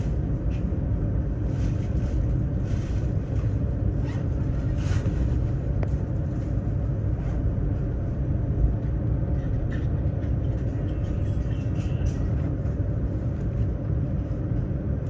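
Steady low rumble of a CRH Hexie high-speed train running at speed, heard inside the passenger car.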